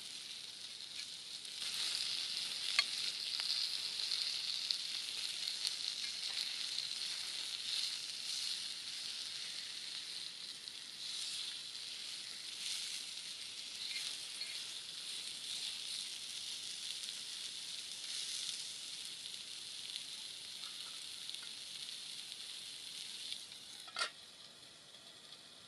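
Chicken sizzling over a campfire: a steady frying hiss that swells about two seconds in and slowly eases. A few light ticks, and one sharp click near the end, after which the sizzle is quieter.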